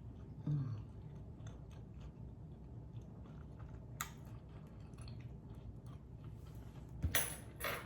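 A person chewing a bite of fried chicken in a soft roll close to the microphone, with small wet mouth clicks throughout. A short low hum falls in pitch about half a second in, and a loud rushing noise comes near the end.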